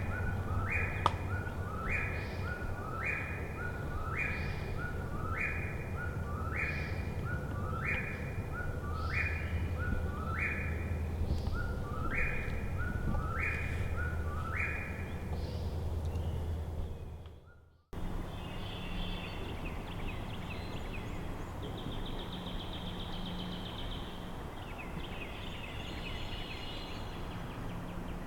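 A bird repeats the same rising two-part call about once a second, more than a dozen times. After an abrupt cut about two-thirds of the way in, fainter, higher chattering birdsong follows.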